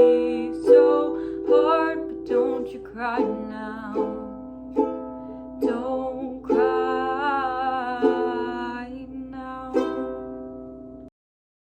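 Solo ukulele-style strummed accompaniment playing the song's closing chords, about one strum every 0.8 seconds, with a long wordless sung note held around the middle. A final chord rings out and the recording cuts off abruptly about a second before the end.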